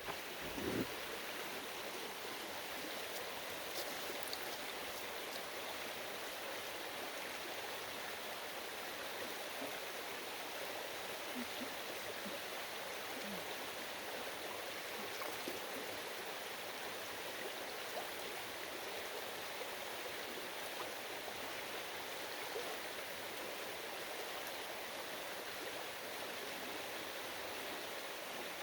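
Stream water flowing steadily with an even rushing sound. A brief thump about a second in.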